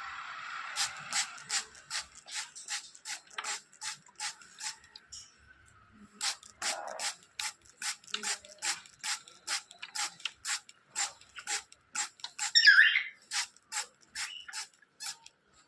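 A steady series of sharp clicks, about three a second, pausing briefly about five seconds in, with one short, louder pitched call near the end.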